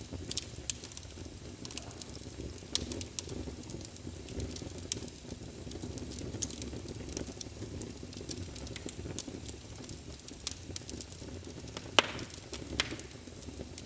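Wood fire burning in a fireplace: a steady low rumble of flames with frequent sharp pops and snaps, the loudest pop about twelve seconds in.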